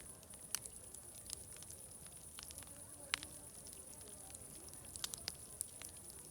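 Crackling fire: irregular sharp pops and snaps, the strongest about three seconds in and a small cluster near the end, over a steady high hiss. A faint murmur of distant voices lies underneath.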